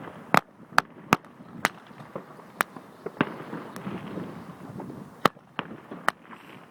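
Firecrackers banging at irregular intervals: about a dozen sharp cracks, some loud and close, others fainter and farther off. The loudest come just after the start and about five seconds in.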